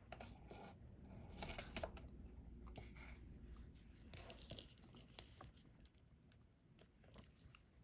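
Faint, irregular small clicks and plastic crinkling of diamond painting: resin drills being picked up with a drill pen and pressed onto the adhesive canvas.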